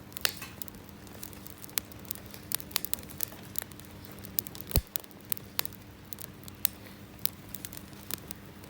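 Campfire of dead Japanese cedar branches crackling: irregular sharp pops and snaps over a low hiss, with one louder pop nearly five seconds in.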